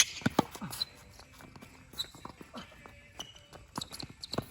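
Tennis rally: sharp hits of the ball off rackets and the court, coming irregularly a second or two apart, with players' footsteps between them.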